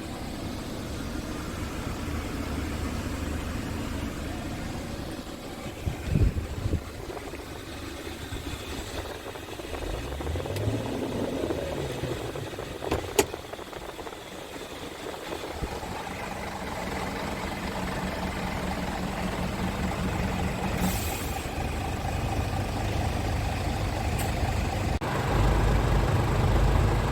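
Scania S410 tractor unit's 13-litre inline-six diesel running. Its pitch sweeps briefly about ten seconds in, then it settles into a steady idle and grows louder near the end. A sharp click comes about halfway through.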